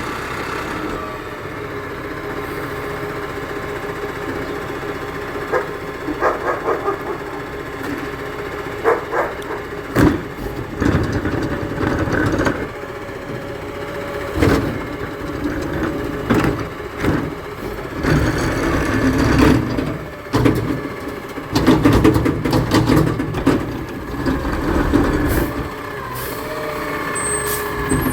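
Garbage truck running, with a steady whine over the engine. From about five seconds in come repeated clanks and bangs, the loudest between about eighteen and twenty-three seconds.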